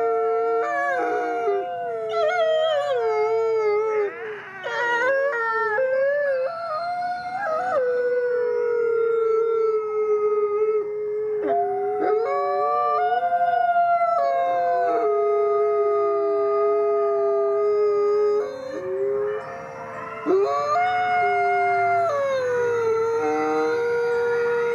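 A chorus of several canines howling together, long overlapping howls at different pitches that slide up and down and break off and start again, with a couple of short lulls.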